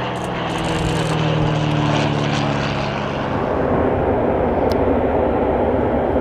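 Propeller aircraft flying past: a steady propeller and engine drone that fades about three and a half seconds in, giving way to a louder, even rushing noise.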